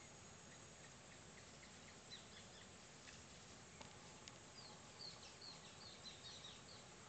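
Faint bird chirping over a steady background hiss: scattered short high notes, then a quick run of short falling chirps about five seconds in.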